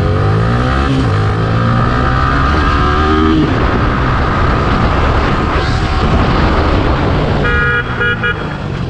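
Yamaha R15 V3's 155 cc single-cylinder engine revving up as the bike accelerates, its pitch climbing for the first few seconds, then wind and road rush. Near the end the bike's aftermarket horn, fitted by the owner in place of the stock one, is sounded in a quick series of short beeps.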